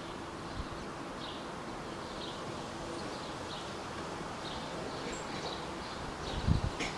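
Small birds chirping, short high calls about once a second, over a steady outdoor background hiss. A brief low thump comes near the end.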